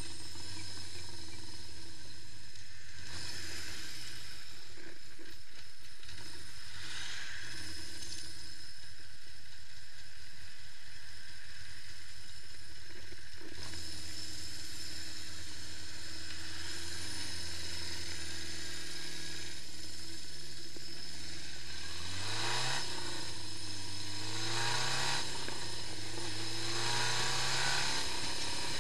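Honda CB550 Four's air-cooled inline-four engine running at a steady idle, then revved up a few times in the last several seconds, the pitch rising and falling with each blip of the throttle.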